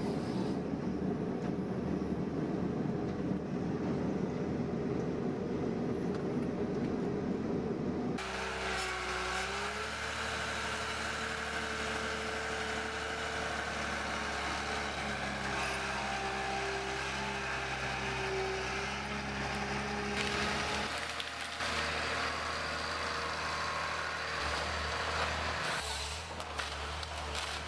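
Engine-driven machinery running, in clips that change abruptly about 8 and 21 seconds in. The middle stretch holds a steady engine hum with small shifts in pitch.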